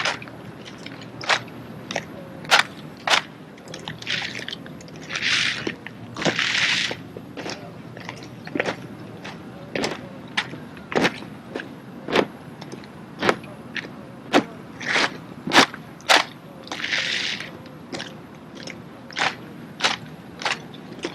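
A rifle drill team working a silent drill sequence: a string of sharp slaps and knocks from rifles struck against hands and the floor and from feet, irregular and up to about two a second, with a few longer scuffing hisses between.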